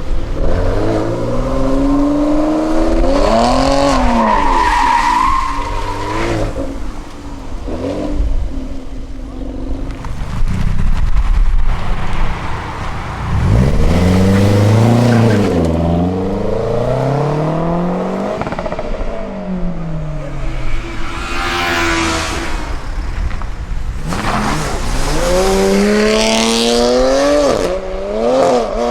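Several performance cars revving hard and accelerating away one after another, each engine's pitch climbing and dropping as it is revved and shifted.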